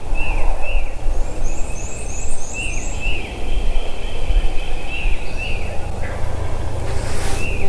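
A wild turkey gobbler gobbling, with songbirds chirping over a low rumble of wind on the microphone.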